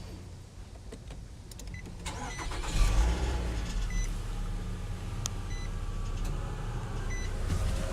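A 2012 Nissan Altima 2.5 S's four-cylinder engine starting about three seconds in and then running steadily, with a short electronic chime beeping several times. This is the noise the owner hears every time the car is started before it is put into drive, and wonders whether it is normal.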